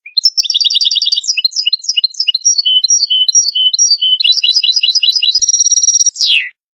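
European goldfinch singing one twittering phrase of fast trills and quick repeated notes. It ends in a held high note and a falling slur, starting and stopping abruptly.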